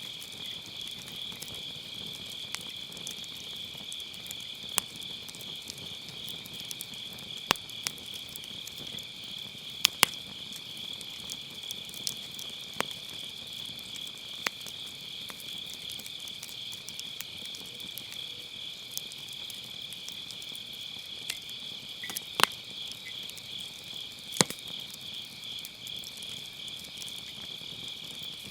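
Field insects chirring in a steady, finely pulsing high chorus, over a burning wood fire that gives off scattered sharp pops and crackles, a close pair of the loudest about a third of the way through.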